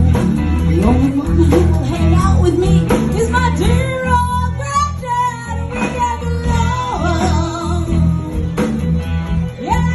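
Live band music: a lead guitar playing notes that bend and glide, over bass and drums with a steady beat.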